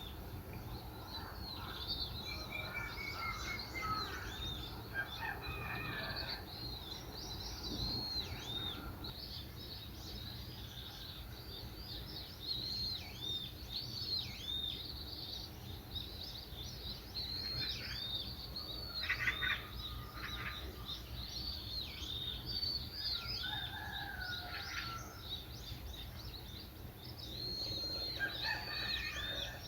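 Several songbirds calling and singing, with many short high chirps repeating throughout and occasional lower trills and warbles, over a steady low rumble.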